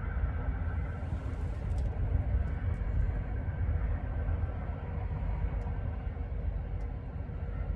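Train running past: a steady low rumble with faint steady tones above it and a few light clicks.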